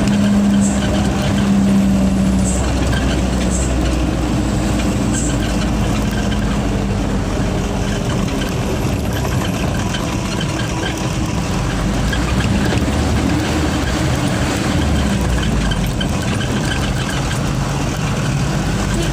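Truck engine running steadily, with a few short faint high whistles in the first few seconds.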